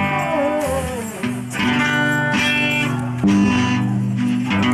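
Guitars of a live rock band playing sustained chords that change twice, with a gliding, bending note near the start.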